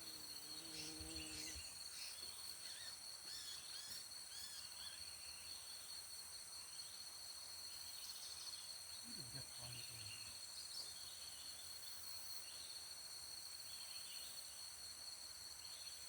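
Forest insects, cicadas or crickets, droning steadily in several high shrill bands, with scattered short chirps of small birds throughout.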